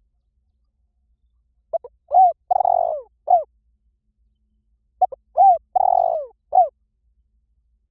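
Spotted dove cooing: two phrases of four notes, a short note, an arched coo, a longer coo falling at its end, and a short final note, the second phrase following about three seconds after the first.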